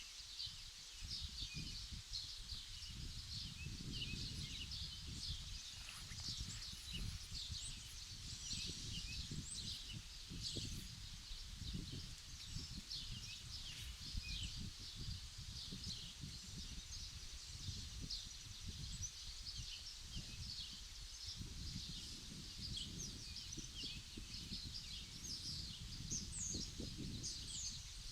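Many small birds chirping and twittering continuously in quick, overlapping calls, over an uneven low rumble of wind on the microphone.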